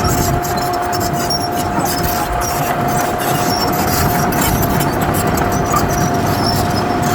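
Heavy diesel earthmoving machine running steadily under load, with a constant high whine over the engine noise.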